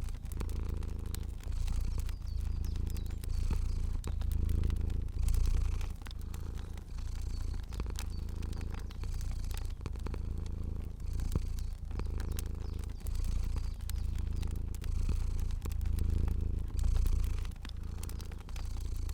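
Cat purring steadily, the purr swelling and fading in a regular cycle about once a second with each breath, over scattered small crackles and pops of a wood fire.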